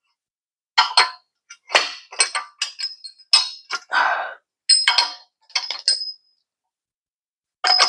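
Metal suspension hardware and tools handled, a dozen or so irregular sharp metal clinks and knocks, some with a short ring, with silent gaps between.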